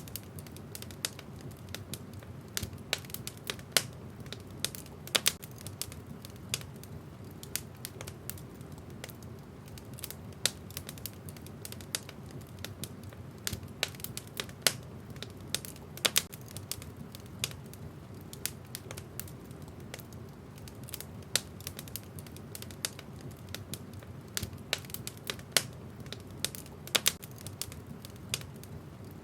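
Wood fire burning in a fireplace, crackling: irregular sharp snaps and pops of the burning wood, several a second, over a steady low noise from the fire.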